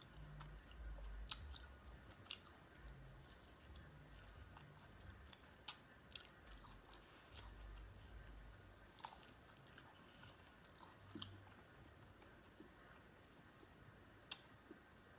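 Quiet close-miked chewing and biting of corn on the cob, with soft mouth sounds and scattered sharp clicks, the loudest near the end.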